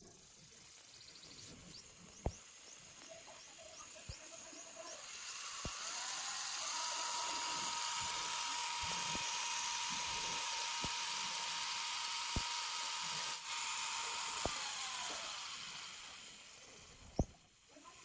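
Small DC motor of a homemade mini helicopter spinning up, running with a steady whine, then winding down near the end, with a few sharp clicks along the way.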